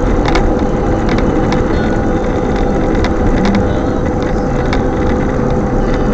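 Strong wind blowing steadily, a loud rushing hiss over a deep rumble, with a few sharp ticks.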